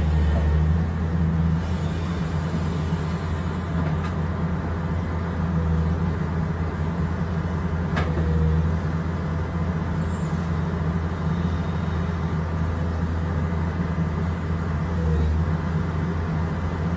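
Komatsu hydraulic excavator's diesel engine running steadily while the boom and bucket work, with one sharp click about eight seconds in.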